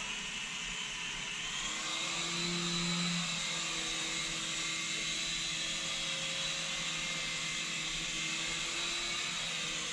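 Syma S107G mini coaxial RC helicopter's small electric motors and rotors whirring steadily, with a slight shift in pitch about two seconds in.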